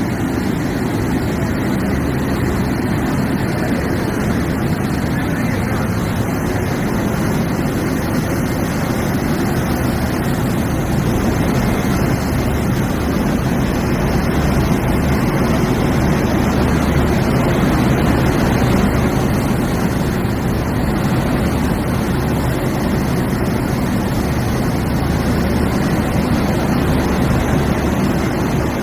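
Indian Railways locomotive running with a loud, steady noise that holds level throughout, with no change in pitch.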